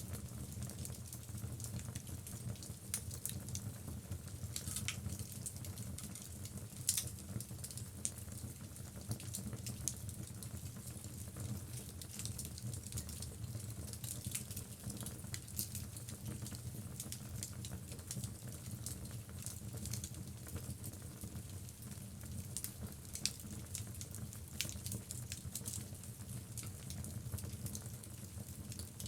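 Wood logs burning in a fireplace: a steady low rumble and hiss with irregular crackles and sharp pops scattered throughout, the loudest pop about seven seconds in.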